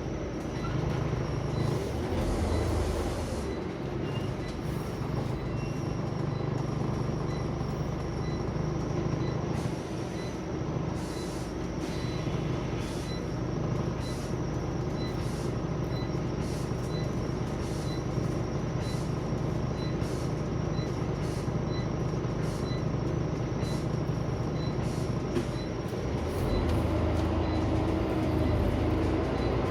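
Scania OmniCity single-deck bus heard from inside the saloon: the engine runs steadily, with interior rattles. A light regular tick sounds somewhat less than twice a second and stops near the end, as the engine gets louder.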